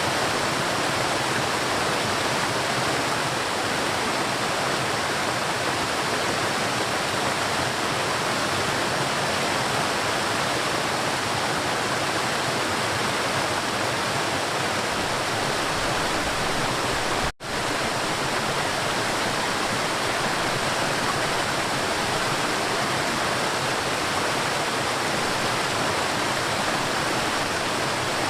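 River water rushing and flowing in a steady, dense wash of sound, with a split-second dropout about two-thirds of the way through.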